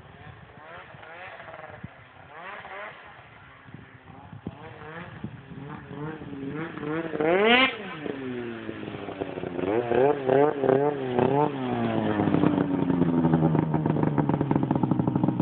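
2003 Ski-Doo Rev 600 HO snowmobile's two-stroke twin through a Sno Stuff Rumble Pack aftermarket exhaust, being revved. A few light throttle blips are followed by one big rev about halfway through, then a run of quick blips. It settles into steadier, louder running near the end.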